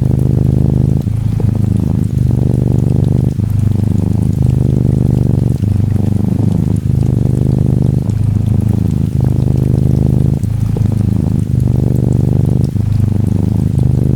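Norwegian Forest Cat kitten purring close up, a low steady purr that breaks briefly about once a second as it switches between breathing in and out. Soft rain patters faintly behind it.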